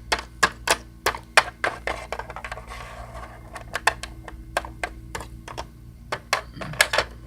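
Irregular clicks and taps of small hard plastic toys being handled and set down on a surface, with a brief soft rustle near the middle.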